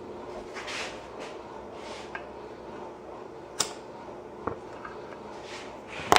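Quiet room with a steady low hum, a few soft hissy swells and scattered light clicks and knocks from handling, the sharpest click just before the end.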